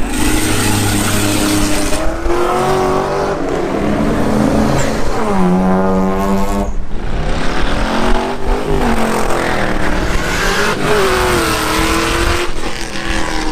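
Car engine being revved repeatedly, its pitch climbing and falling several times, with one steep climb to high revs about halfway through.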